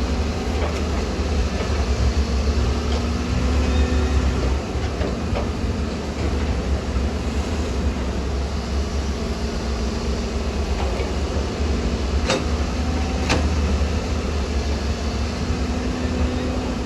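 Heavy earthmoving machinery's diesel engine running with a steady, deep rumble, with two sharp knocks about a second apart about twelve seconds in.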